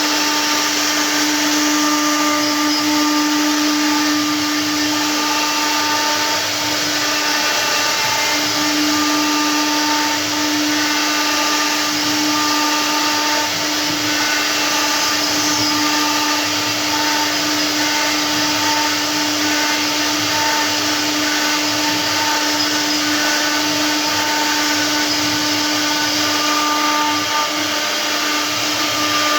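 CNC router spindle running steadily as it cuts stone: a constant whine over a grinding hiss.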